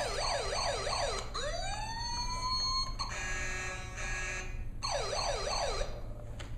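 Electronic siren of a 2000 Hess toy fire truck. It goes through a fast yelp of about four sweeps a second, then one rising wail about a second in, then a steady buzzing horn tone from about three seconds in, and then back to the fast yelp near the end.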